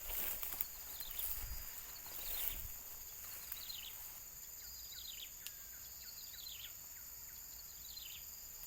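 A small bird giving short, falling chirps about once a second over a steady, high insect drone, with a few rustling steps in the first couple of seconds.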